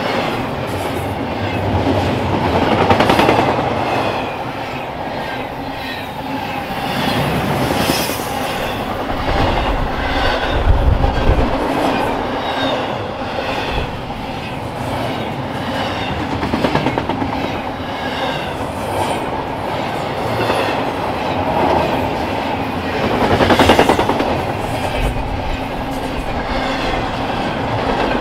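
Train cars rolling past close by, wheels clattering rhythmically over the rail joints, the sound swelling and easing as groups of wheels go by.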